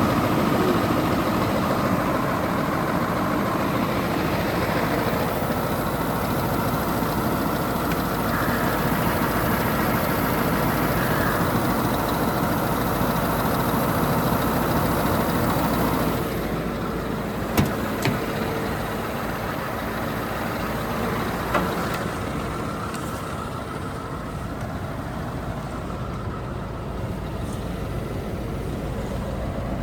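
Scania R520 truck's V8 diesel engine idling steadily. It becomes quieter a little past halfway through, and a few short clicks come soon after.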